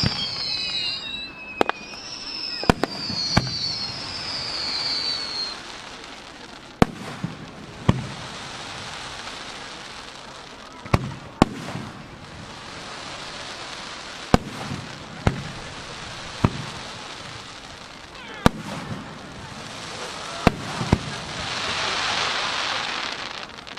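Aerial firework shells bursting: about a dozen sharp bangs, spaced one to three seconds apart, over a steady crackling hiss that swells twice. A few high falling whistles sound in the first few seconds.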